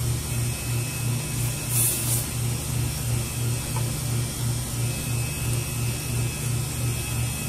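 Newly installed walk-in cooler condensing unit running: a steady low hum from the refrigeration compressor that pulses about three times a second. A brief hiss comes about two seconds in.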